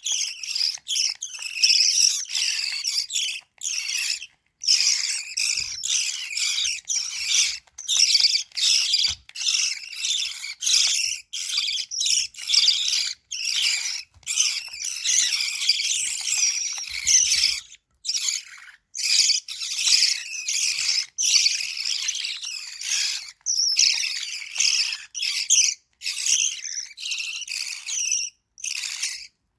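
Lovebird chicks giving rapid, high-pitched chirping begging calls in near-continuous bursts while being fed.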